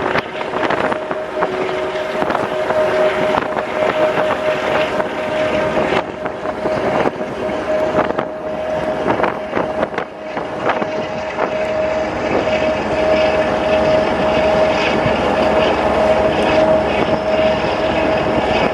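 Passenger train running on the rails, heard from inside the carriage: a steady rumble and rush of noise with irregular clicks and knocks from the wheels, and a steady hum underneath.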